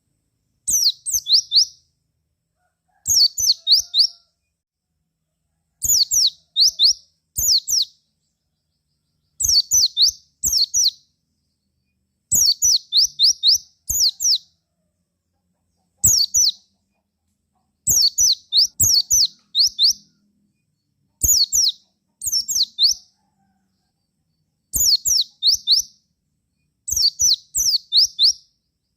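Pleci (white-eye) song: short bursts of three to five quick, high chirps that each slide downward, repeated every one and a half to two seconds with silence between.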